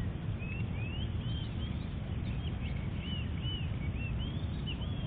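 A bird calling repeatedly: a run of short, arched chirps, about two a second, over a steady low rumble.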